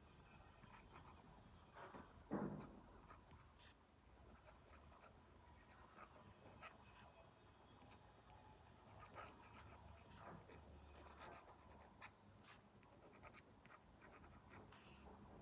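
Stylus tip tapping and stroking on a tablet screen fitted with a paper-like film, a faint scratchy drawing sound with scattered light ticks. There is one louder, duller thump about two and a half seconds in.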